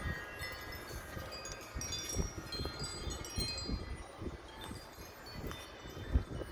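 Wind chime ringing continuously in strong gusty wind, many overlapping tones struck in quick irregular succession, over an irregular low rumble of wind gusts.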